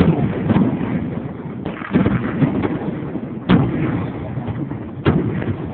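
Aerial fireworks bursting: about half a dozen sharp bangs, the strongest at the start and about two, three and a half and five seconds in, with a low rumble between them.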